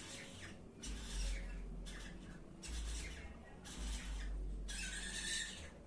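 Caged birds making short raspy, hissing sounds in repeated bursts about once a second, over a low rumble.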